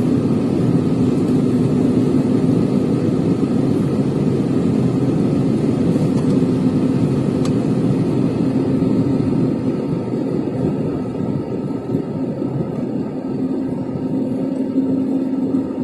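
Steady low rumble of a moving vehicle with a constant drone, easing off slightly about ten seconds in.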